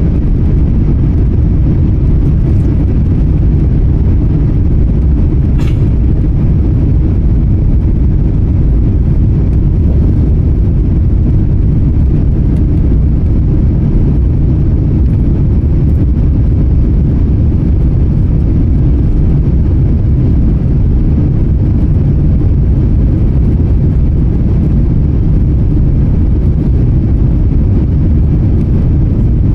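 Steady, loud deep rumble of an Airbus A350's Rolls-Royce Trent XWB engines and rushing air, heard inside the cabin through a phone pressed against the window.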